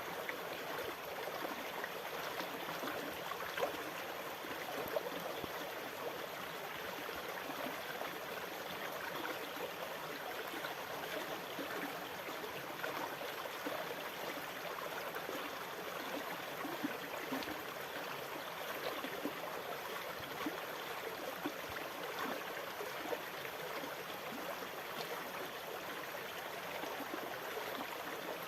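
Sea water lapping and trickling steadily, a continuous wash of small splashes and gurgles with no distinct waves rising and falling.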